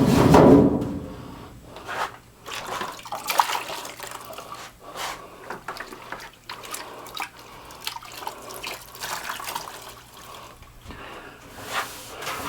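A loud wash of water-like noise for about the first second, then irregular wet scrubbing and wiping strokes with light knocks, from hand cleaning of sheet-metal ductwork with water and cleaner.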